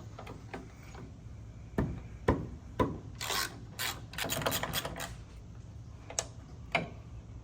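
Hand tools working on a car's undercarriage: a few sharp metal knocks, then stretches of rasping and scraping, with two more knocks near the end.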